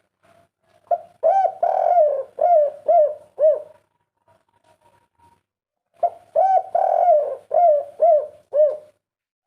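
Spotted dove (tekukur) cooing its 'kuk 3' song: two phrases about five seconds apart, each a longer opening coo followed by a run of short, arching notes.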